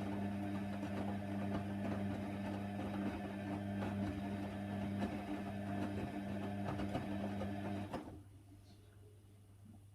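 Hoover Nextra HNWL 7146 washer dryer running with a steady mechanical hum and light clicks and knocks. About eight seconds in it stops abruptly, leaving only a faint low hum.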